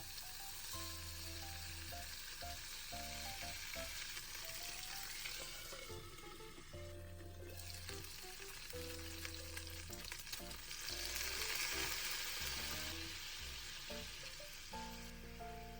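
Food sizzling in a frying pan while it is stirred, the hiss growing louder about eleven seconds in.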